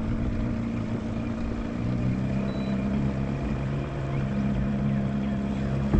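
Motorboat engine running steadily as a boat passes by, its note shifting lower about two seconds in.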